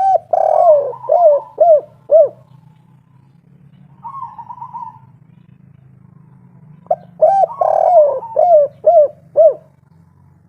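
Spotted dove (tekukur) singing its 'kuk 3' song twice: each phrase is a long coo followed by three short, clipped coos. A softer rolling coo comes between the two phrases, over a steady low hum.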